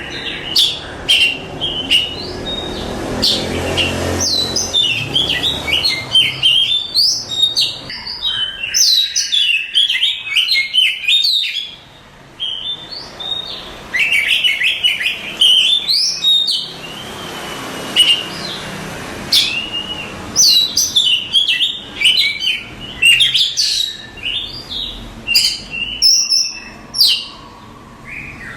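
Oriental magpie-robin (kacer) singing a long, varied song of rapid whistles, chirps and trills. There are short pauses about twelve seconds in and again near the end.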